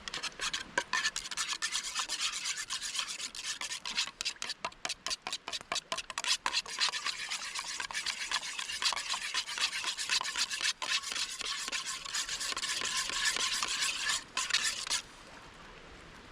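Quick, uneven rubbing and scraping strokes, a rasping sound that stops about fifteen seconds in.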